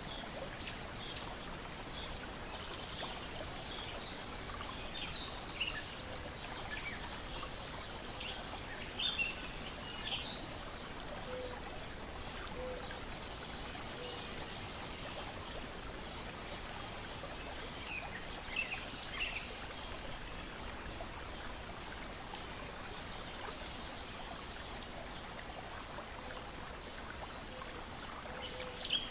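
Lake water lapping and splashing in a steady wash, with songbirds chirping and calling on and off throughout.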